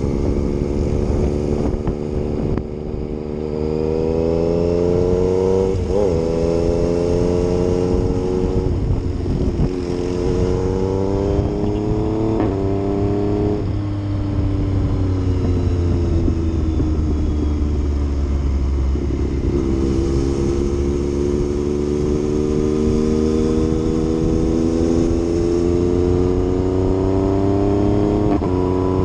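Yamaha MT-09's three-cylinder engine under way, revving up through the gears: the pitch climbs and drops sharply at each upshift, about four times, with a long stretch of easing off in the middle.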